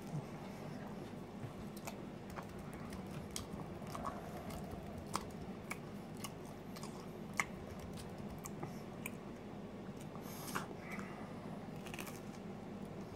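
A person biting into and chewing a slice of pizza close to the microphone: irregular short clicks and mouth noises, a few each second.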